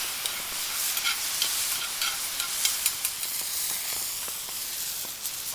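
Food sizzling in a hot pan, with a few light clicks and scrapes of a utensil stirring it.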